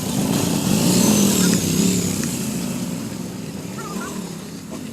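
Car engine revving as it accelerates away, loudest about a second in and then fading, with a smaller blip of throttle near the end.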